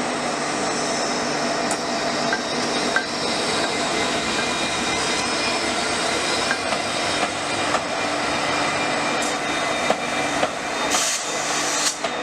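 Train in motion: steady running noise of wheels and carriage with scattered light clicks and a short hiss about eleven seconds in.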